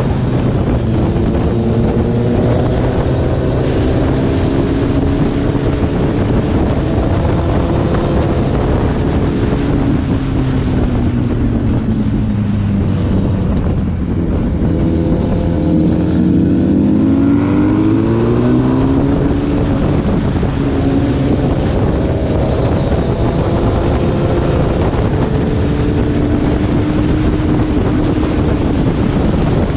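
Kawasaki ZX-10R inline-four engine running under way, with wind noise on the microphone. About halfway through, the engine note falls as the throttle is rolled off, then climbs again as it is opened.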